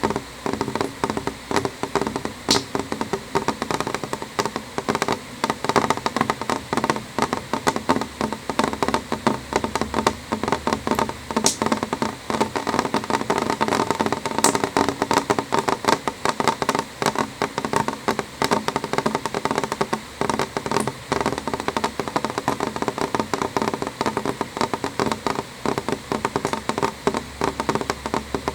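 Rain drops striking a window pane: a dense, irregular tapping, with a few sharper drops standing out now and then.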